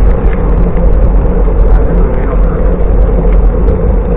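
Wind rushing over the microphone of a camera riding along on a moving bicycle: a loud, steady rumble that does not let up.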